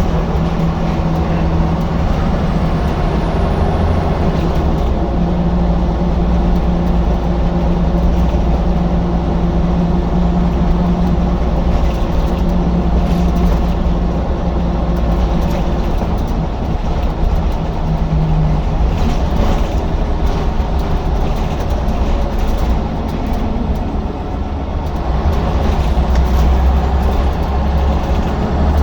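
Scania L94UB bus's diesel engine running under way, a continuous loud drone whose pitch shifts up and down several times.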